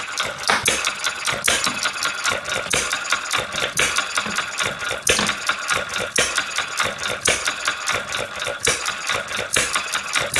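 Self-built model hit-and-miss engine running, a fast mechanical clatter of clicks with louder knocks about once a second at uneven intervals.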